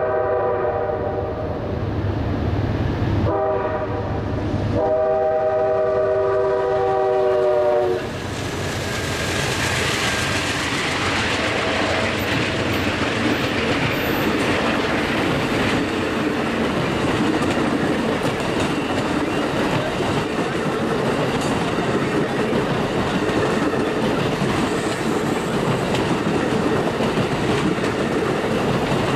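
Amtrak P40 diesel locomotive's horn ends its grade-crossing signal: a held chord, a very brief toot, then a final long blast that sags slightly in pitch as the locomotive passes. It stops about eight seconds in, and the Auto Train's Superliner cars then roll by with steady wheel-on-rail clatter.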